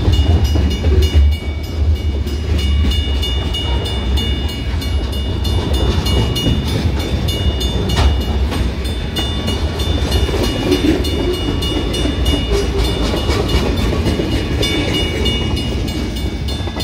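Freight train's covered hoppers and boxcars rolling past close by: a steady rumble of steel wheels on the rails, heaviest in the first couple of seconds, with a single sharp click about eight seconds in.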